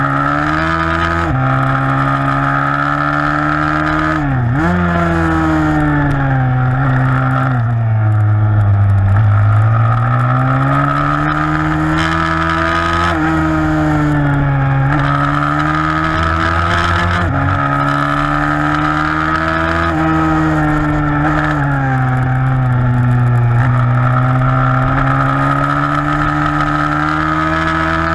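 Single-cylinder four-stroke 160cc pit bike engine racing under hard throttle. Its pitch rises repeatedly, drops abruptly at each gear change, and dips and climbs again through the corners.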